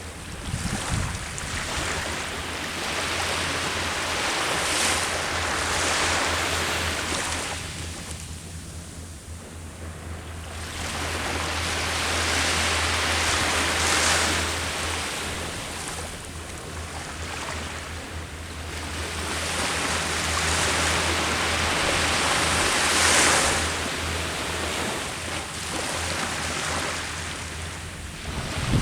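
Ocean surf breaking on a shore, swelling and falling away in slow surges several seconds apart, over a steady low rumble.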